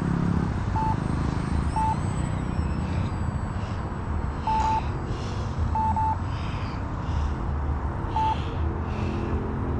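Short electronic beeps, single and paired, every second or so, typical of an RC transmitter's button or trim beeps, over a steady low rumble.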